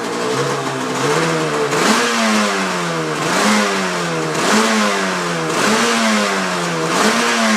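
1986 Yamaha RZ350's two-stroke twin engine running with the throttle blipped about once a second, each rev rising quickly and sagging back. The bike has just been started after sitting 12 years and doesn't idle on its own.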